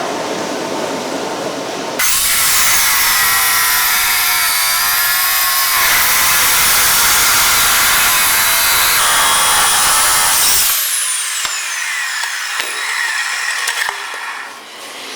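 A high-speed power tool running under load with a wavering whine. Near the end it is switched off and its whine falls as it spins down, followed by a few light knocks.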